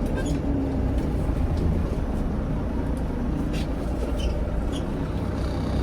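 Semi-truck's diesel engine running at low speed, a steady low rumble with a few light clicks over it.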